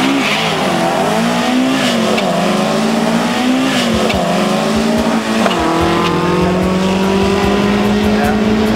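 Drag-racing car engines revving up and down at the start line, then launching and accelerating hard down the strip, the pitch falling at a gear change about halfway through and climbing steadily again.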